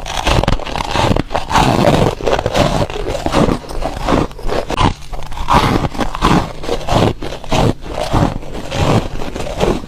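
Foam ice being bitten and crunched between the teeth: a dense run of crunches, several a second.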